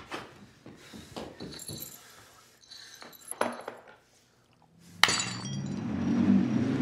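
A few light clinks and knocks, then about five seconds in a car engine comes in suddenly and revs, its pitch rising.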